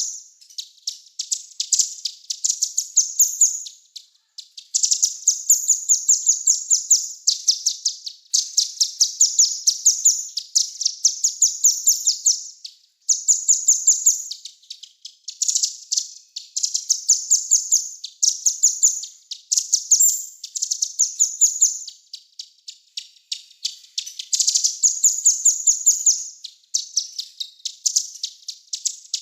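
A small songbird singing rapid, high-pitched trilled phrases of about one to two seconds each, repeated over and over with short breaks between them.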